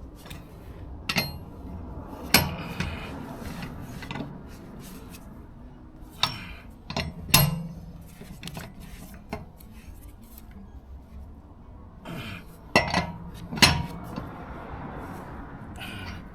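Wheel brace working the wheel nuts on a car wheel: sharp metallic clinks and rattles at irregular intervals, the loudest about a second in, around two seconds, around seven seconds, and twice near the end. The nuts are being tightened lightly in turn so the threads are not damaged.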